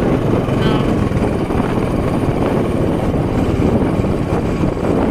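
Motorcycle running on the move, heard from the pillion seat, with steady wind rumble over the microphone.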